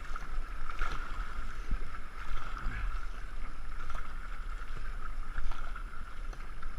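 Two-man racing canoe under way: paddle strokes splashing and river water rushing past the hull, with wind buffeting the microphone.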